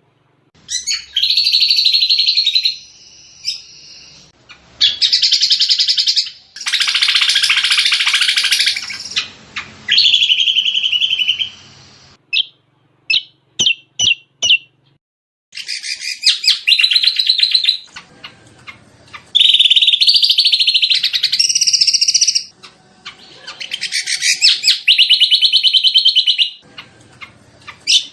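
Lesser green leafbird (cucak combok) song: bursts of fast, chattering high phrases, each a second or three long, separated by short pauses, with a few single sharp notes around the middle.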